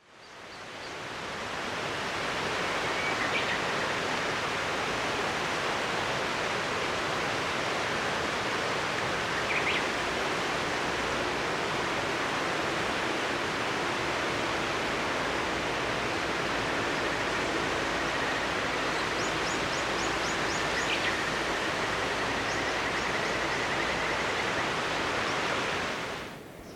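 A river flowing in a steady, even rush, with a few short bird chirps above it. The rush fades in at the start and fades out near the end.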